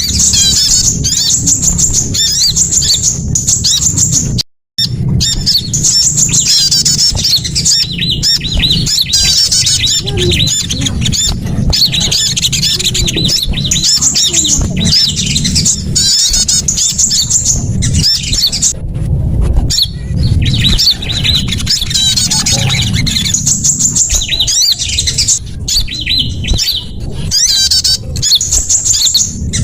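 Bird-lure recording of sunbirds and other small songbirds: dense, overlapping high-pitched chirps, trills and squeaky calls, over a steady low rumble. The sound cuts out completely for a moment about four and a half seconds in.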